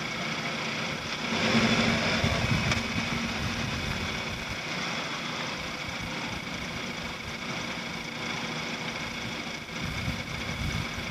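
2012 Volkswagen Beetle's engine idling steadily, heard inside the cabin, briefly louder about two seconds in.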